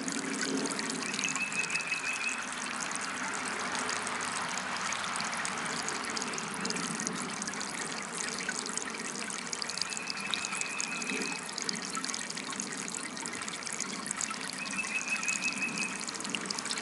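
Small DIY water fountain trickling steadily. A short, high trilling chirr comes three times: about a second in, around the middle, and near the end.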